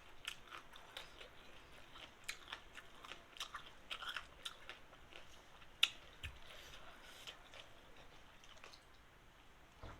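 A person chewing a mouthful of noodles with fish paste: a run of soft, faint mouth clicks and smacks, thinning out in the second half, with one sharper click about halfway through.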